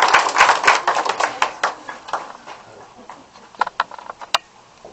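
Audience clapping that dies away over the first two seconds or so. It is followed by a few scattered claps or knocks and faint voices.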